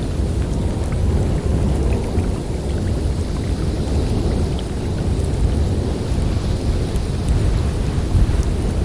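Snowstorm wind blowing steadily as a dense low rumble, with a fainter hiss above it.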